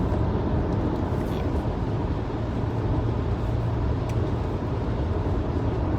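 Steady road noise heard from inside a moving car at highway speed: a low, even rumble of engine and tyres on a snowy road.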